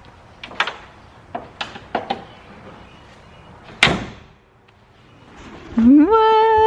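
Door clatter: a few light knocks, then one loud slam about four seconds in. Near the end a musical note slides up and holds steady.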